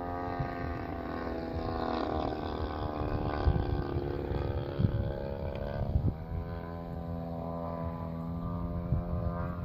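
Model airplane engine running steadily, its pitch shifting slightly about six seconds in.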